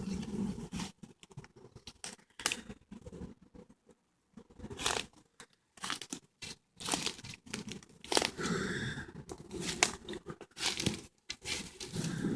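Footsteps crunching on dry leaves and twigs on a woodland path, an irregular run of short crackling steps at walking pace.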